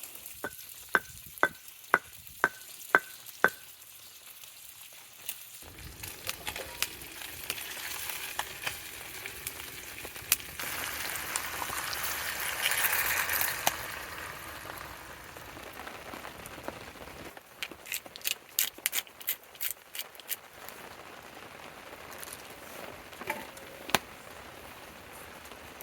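Food sizzling in a pan, the sizzle swelling for a few seconds midway. It is opened by a run of about seven sharp ringing clicks, about two a second, and later broken by another quick run of clicks.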